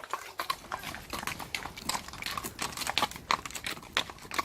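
Horses' hooves and footsteps on a lane, a quick, irregular run of sharp clicks and crunches.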